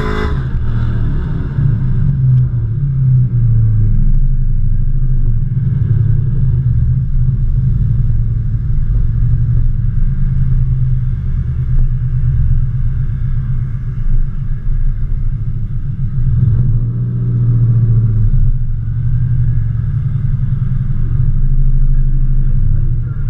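A car engine idling with a steady low rumble that swells a little now and then.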